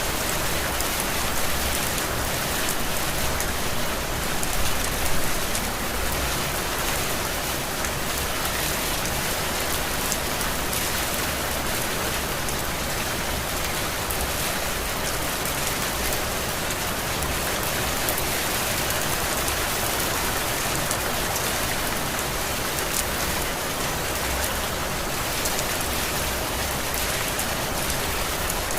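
Steady heavy rain falling, an even rushing noise with fine drop hits, swelling briefly louder about four to five seconds in.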